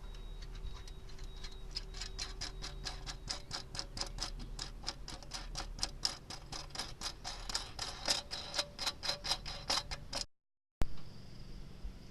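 A fast, even run of sharp mechanical clicks, about five a second, that breaks off about ten seconds in.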